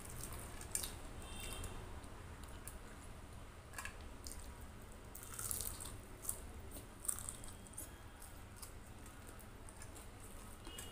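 Eating sounds close to the microphone: wet chewing and mouth smacks from rice and curry eaten by hand, with soft squishing of rice in the fingers. A few sharper smacks stand out near the middle, over a low steady hum.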